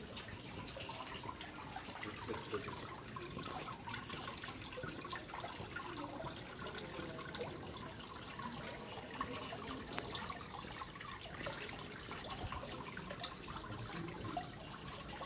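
Water trickling and splashing steadily, with many small drips, as from a water feature in an indoor rainforest hall.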